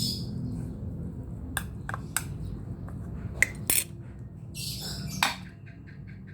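Kitchenware clinking and knocking: a few sharp clicks spread over the first four seconds, then a brief rustle, then faint small ticks.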